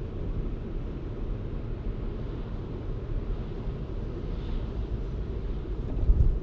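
Car driving along a road: a steady low rumble of road and engine noise, with a louder low thump about six seconds in.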